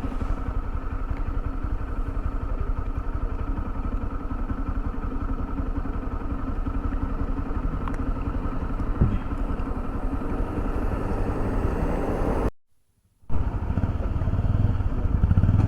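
Motorcycle engine running steadily with a fast, even firing beat as the bike is ridden. About twelve and a half seconds in, the sound cuts out completely for under a second, then resumes.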